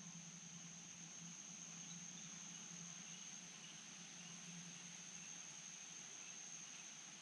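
Faint, steady high-pitched insect trill, like crickets, over a soft hiss, with a steady low hum underneath and a few faint chirps.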